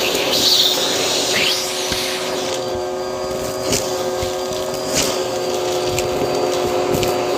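Bissell vacuum cleaner running with its crevice tool, a steady motor whine over the rush of suction air, with a few sharp clicks about four and five seconds in.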